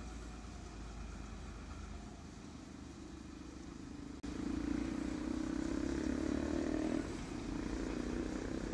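Diesel passenger train approaching, a steady low engine drone that steps up in loudness about four seconds in and stays loud as it draws nearer.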